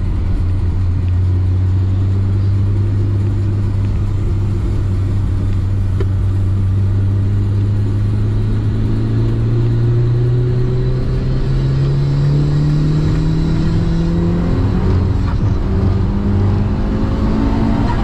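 Mitsubishi Lancer Evolution V's turbocharged four-cylinder engine heard from inside the moving car, holding a steady note that slowly rises in pitch about halfway through as the car gathers speed. It drops back a little and climbs again near the end.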